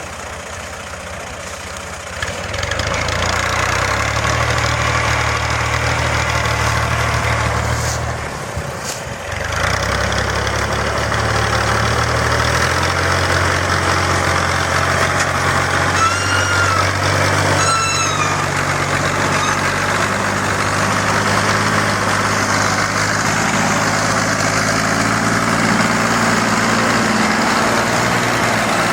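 Tractor engine running hard, getting louder about two seconds in, dropping away briefly around a third of the way through, then running steadily again. Two short high-pitched whistle-like calls sound over it a little past the middle.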